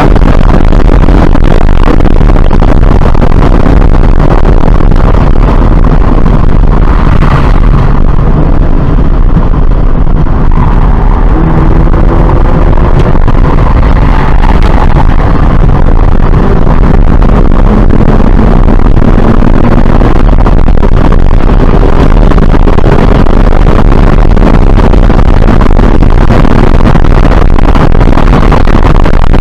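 Loud in-cabin sound of a 2017 Subaru BRZ's 2.0-litre flat-four engine at track speed, mixed with heavy wind and tyre roar at around 100 mph. About a third of the way in it eases off for a slow corner, then the engine note climbs in pitch in steps as the car accelerates back up through the gears.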